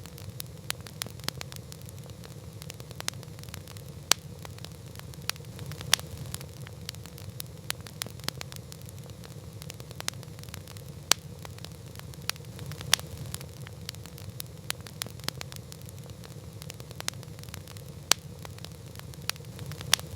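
Wood campfire crackling: irregular sharp pops and snaps, a few much louder than the rest, over a steady low rumble of the burning fire.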